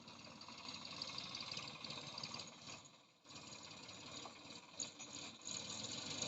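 Tractor running in a field with a rattling, clattering noise, likely from the engine and the implement working the mud. The sound drops away briefly about three seconds in, then picks up again.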